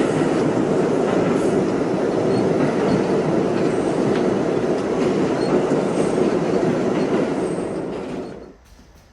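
New York City subway train running between stations, a loud steady rumble of wheels on rail with faint brief high squeals now and then. It cuts off suddenly near the end.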